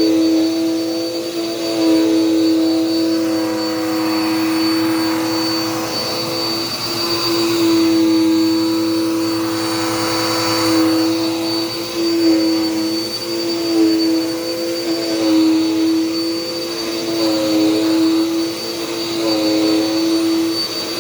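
Dirt Devil Power Max vacuum cleaner running, a steady motor hum with a high whine above it, the pitch dipping slightly now and then.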